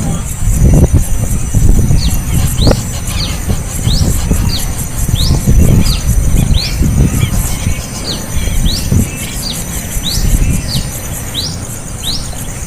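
Small bird giving short, high, rising chirps, about two a second, starting about two seconds in. Under them run a loud low rumble and a steady high hiss.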